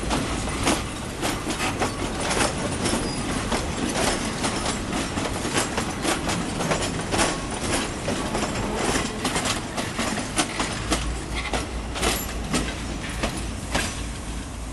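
Passenger coaches of a State Railway of Thailand suburban train rolling past, wheels clicking and clunking irregularly over rail joints and points over a steady low rumble.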